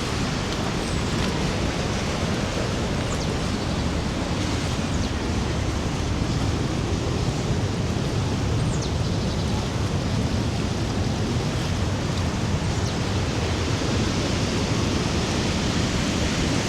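Rhine Falls: a steady rush of falling water, loud and even throughout.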